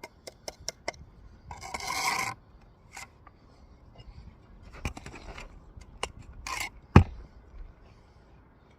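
Steel mason's trowel working mortar on brick: a few quick clicks, then a long scrape about two seconds in, a few scattered taps, a shorter scrape, and a sharp knock near the end, the loudest sound, as a brick or the trowel strikes.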